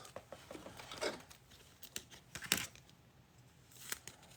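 Trading cards and pack wrappers being handled: a few soft clicks and rustles, spaced out.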